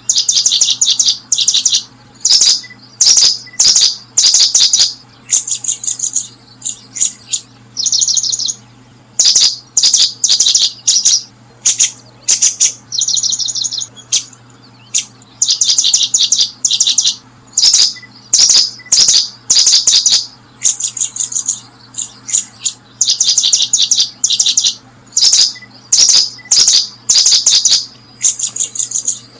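Small songbird calling: short bursts of rapid, high-pitched trills, repeated about once a second with brief gaps, mixed with sharp clicks.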